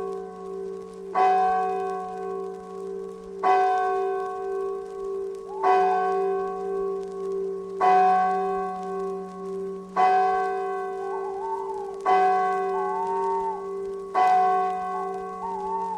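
A single large bell tolling slowly, struck seven times about every two seconds, each stroke ringing on into the next. In the second half a faint wavering tone rises and falls over the ringing.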